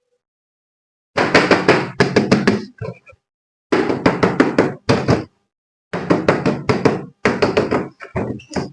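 Rapid knocking and tapping in short bursts of about a second each, separated by brief gaps, after a second of silence at the start.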